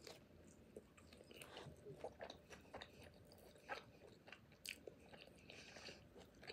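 A person chewing a mouthful of pupusa topped with slaw and salsa, faint and close. Small wet clicks and smacks come at irregular moments.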